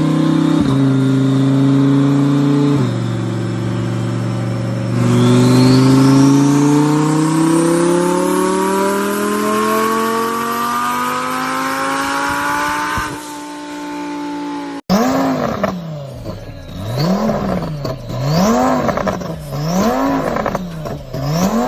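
Twin-turbo Lamborghini engine running steadily, then pulling in one long, steadily rising sweep of pitch for several seconds as the car accelerates. After a sudden cut, it is revved up and down about four times, with a high whistle rising on each rev.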